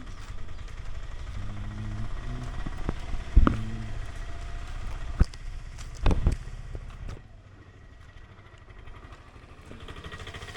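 A low vehicle engine rumble with a few sharp knocks, turning quieter after about seven seconds.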